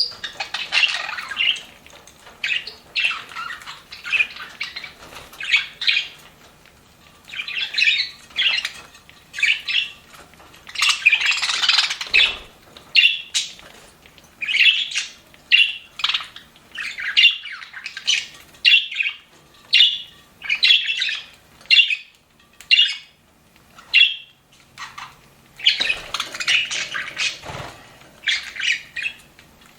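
Pet budgerigars chattering: a flock of short chirps and squawks following one another several times a second, some overlapping, with denser bursts of chatter about eleven seconds in and again near the end.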